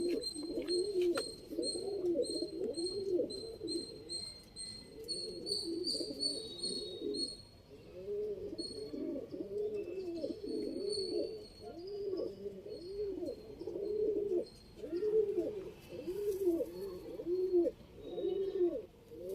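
Domestic pigeons cooing, one low call after another with hardly a break. A faint high-pitched chirp repeats about twice a second through the first seven seconds or so.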